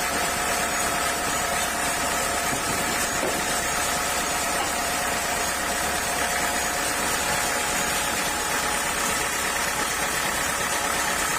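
Sawmill machinery running steadily: a constant machine hum with a held whine and no breaks.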